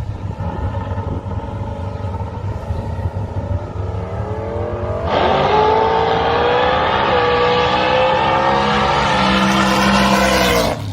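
Engine rumble for the first few seconds, then the supercharged alcohol-burning small-block Chevy V8 drag car launches suddenly about five seconds in, loud and climbing in pitch, dipping briefly once about two seconds later, and cutting off just before the end.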